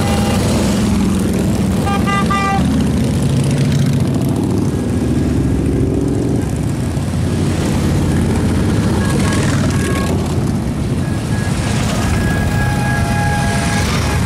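Many motorcycle engines rumbling steadily as a large group rides past, with short horn-like tones about two seconds in and again near the end.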